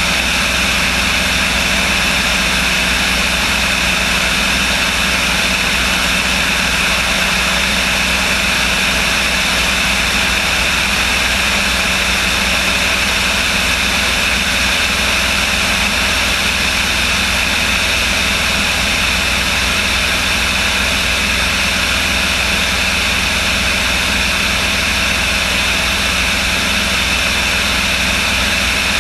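A light aircraft's engine and propeller running at a steady, unchanging power with a constant drone.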